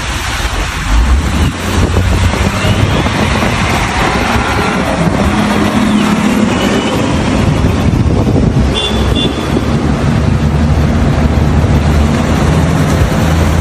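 A motor vehicle's engine running with a steady hum under a loud, even rush of road and wind noise. Two brief high chirps sound about nine seconds in.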